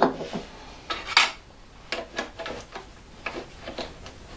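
Metal tools being handled on a workbench: a run of irregular short clinks and taps, about a dozen over a few seconds.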